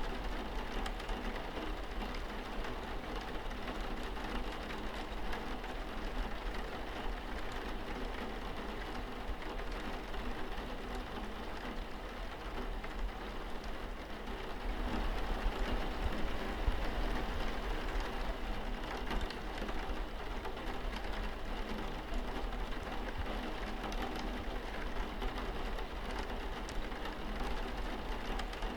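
Steady rain falling on a window glass: an even hiss of rain with small drop ticks, swelling slightly about halfway through.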